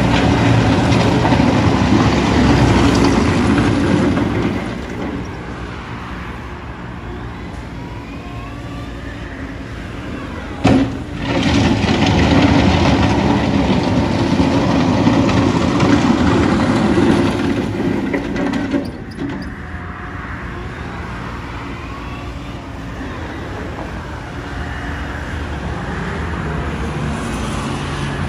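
Caterpillar 901B compact wheel loader's diesel engine running, louder for a few seconds at the start and again for a long stretch in the middle, and dropping back to a lower, steady run in between and afterwards. A single sharp knock sounds just before the second loud stretch begins.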